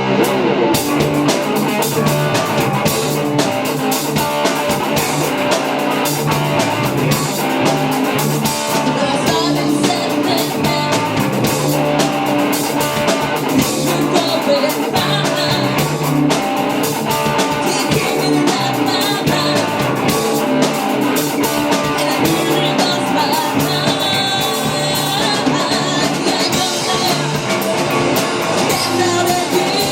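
Live rock band playing, with electric guitar, drum kit and singing.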